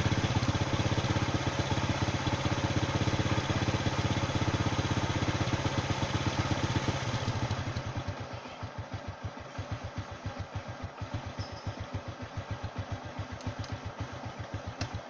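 Motorcycle engine running in neutral, steady at first. About halfway through it drops to a quieter, slower idle with distinct even pulses. The sound stops abruptly at the very end.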